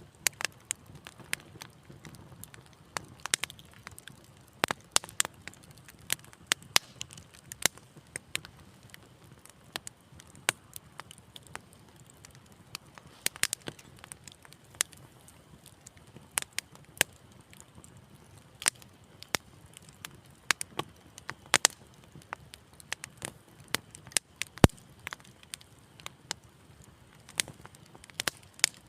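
Wood fire crackling in a fireplace: irregular sharp pops and snaps over a soft low rumble of the flames, with one louder pop near the end.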